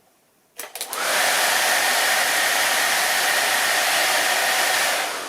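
Renault Twingo 1 cabin blower fan, wired straight to a car battery: a few clicks, then the fan starts about a second in and runs with a steady rushing whoosh and a whine, beginning to die away at the end. It runs with the loose, vibrating vane snapped off, and no longer makes the same noise.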